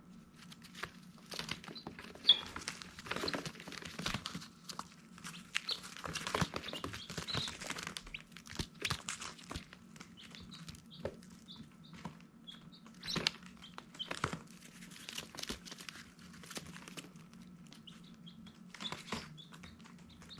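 Baby chicks peeping in short, high, scattered calls, among bursts of rustling and tapping, with a steady low hum underneath.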